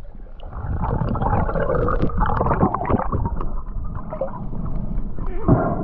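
Muffled water gurgling and bubbling with scattered small clicks, heard from a camera at or under the water.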